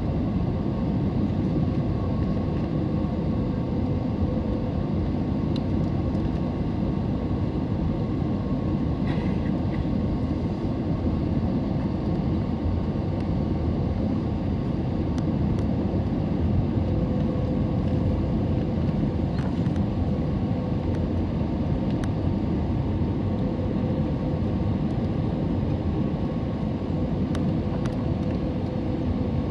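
Steady cabin noise of an Airbus A320neo airliner in flight: a low, even rumble of airflow and its CFM LEAP-1A engines heard from inside the cabin, with a faint steady hum above it.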